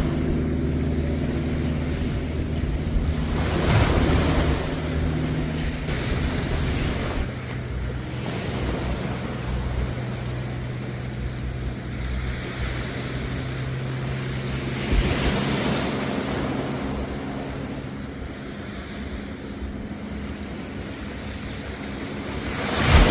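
Sea waves washing onto the beach, swelling about 4 s in, again near the middle, and most loudly at the end, over a steady low engine hum.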